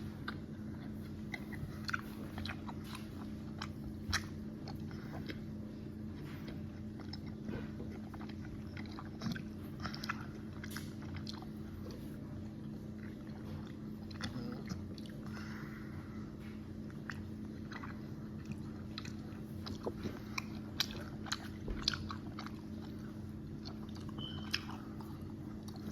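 Close-up mouth sounds of gummy candy being chewed: irregular wet smacks and clicks over a steady low hum.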